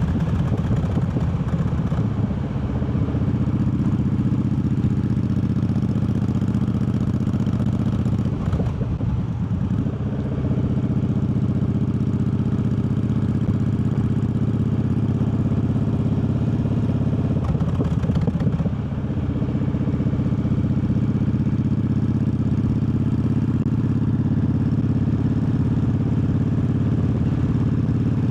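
Triumph Bobber's 1200 cc parallel-twin engine running while riding. The engine note shifts twice, about a third and two-thirds of the way through.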